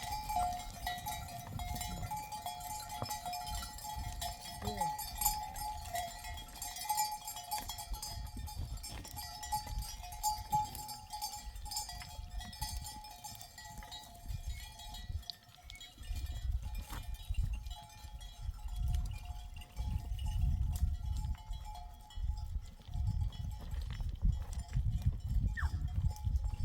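Sheep bells on a grazing flock clinking and ringing, strongest in the first half. A low rumbling noise rises through the second half.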